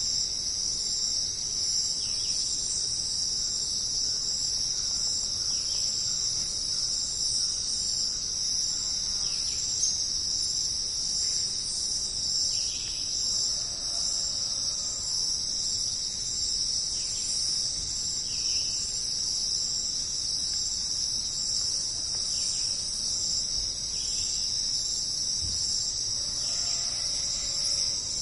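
A dense, steady, high-pitched chorus of rainforest insects that never lets up, with faint short calls now and then beneath it.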